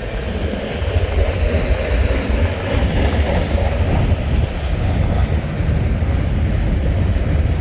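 Freight train cars rolling past at close range: a loud, steady rumble of wheels on the rails.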